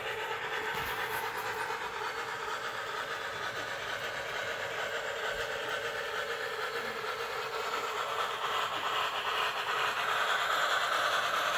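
Steam-locomotive running sounds, a steady chuffing hiss, from a TCS WOW steam sound decoder played through a small Soundtraxx 27 mm Mega Bass speaker in the tender of a Bachmann On30 2-6-6-2 model locomotive under way. It grows a little louder about eight seconds in.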